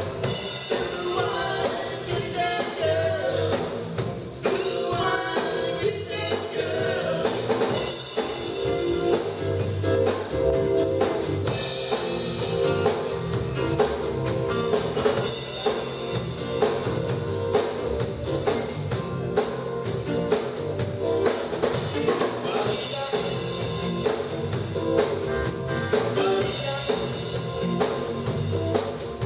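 A live band with drum kit playing a song, with a singer, during a sound check.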